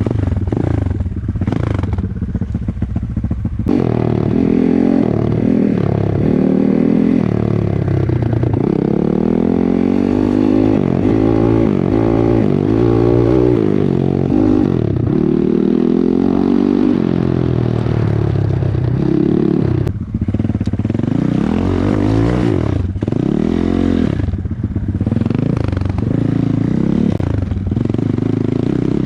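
Off-road motorcycle engine being ridden, its revs rising and falling again and again as the throttle is opened and closed, louder from a few seconds in and dipping briefly twice near the end.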